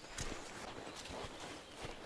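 A few scattered light knocks and taps of gear being handled in a boat, over a steady hiss.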